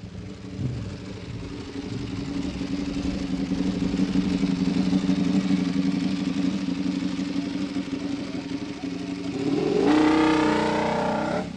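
Motorcycle engines running, the sound swelling in the middle. Near the end one engine revs up, rising in pitch, then drops away.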